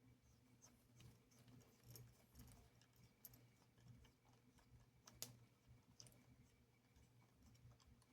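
Near silence with faint, scattered clicks and taps of small screws and a small screwdriver being handled on a model locomotive chassis, one sharper click about five seconds in, over a low steady electrical hum.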